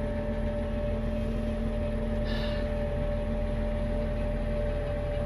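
Farm tractor engine running steadily with a constant whine over its low rumble, and a short faint hiss about two seconds in.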